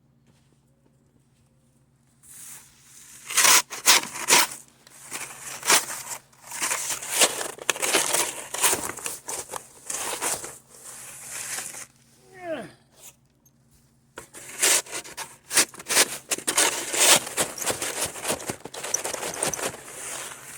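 Irregular bursts of crunching and scraping with sharp crackles as a snow-buried tent is dug out and handled, with a brief lull and one short falling squeak about twelve seconds in.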